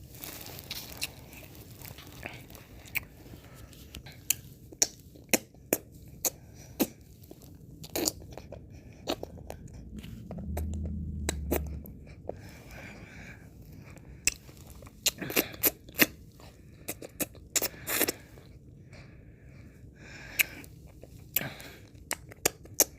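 Close-miked mouth sounds of ice cream being eaten and licked: irregular sharp wet clicks and smacks throughout. A brief low rumble comes about ten seconds in.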